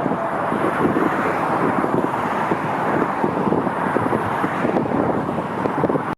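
Wind buffeting the microphone outdoors, a loud steady rushing noise that cuts off abruptly at the end.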